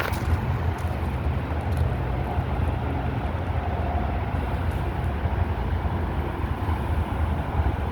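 Peterbilt 520 McNeilus Meridian front-loader garbage truck's engine running steadily with a low rumble.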